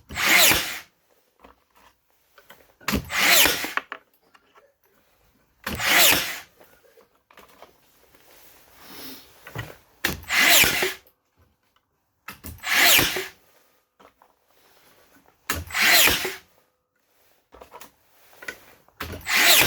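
Makita DBN600 cordless finish nailer being cycled over and over, seven short loud bursts each under a second long, a few seconds apart. The nailer is misfiring.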